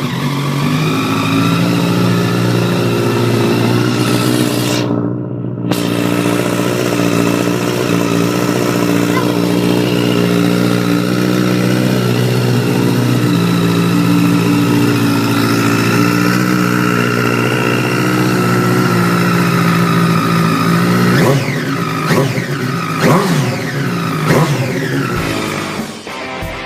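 Sports motorcycle engine running at high, steady revs with a high whine over it. In the last few seconds the revs rise and fall several times.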